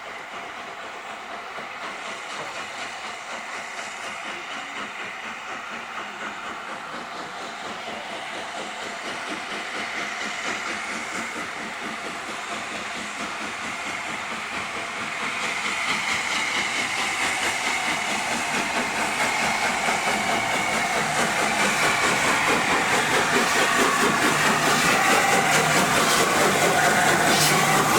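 Steam locomotive hauling a train and drawing steadily closer, its sound growing louder throughout and loudest near the end.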